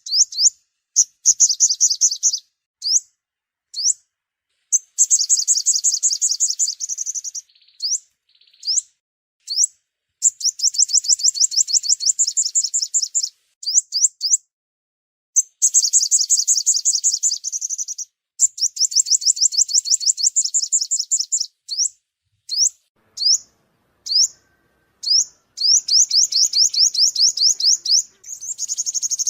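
Sunbird song played as a trapping lure: rapid high trills of quick, downward-sweeping notes alternating with short single chirps, in bursts of one to three seconds separated by dead-silent gaps.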